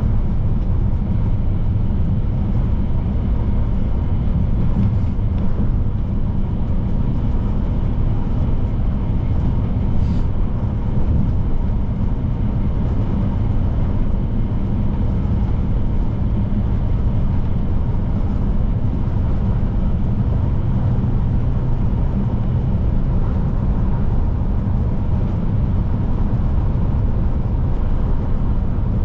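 Scania P310 truck's diesel engine running steadily at cruise, with road and tyre noise: a constant low drone.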